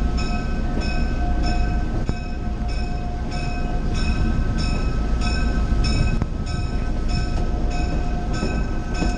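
Big Trees excursion train running on the rails, heard from aboard as a steady heavy rumble. Over it, a ringing repeats about every 0.6 seconds and steady high-pitched tones hold throughout.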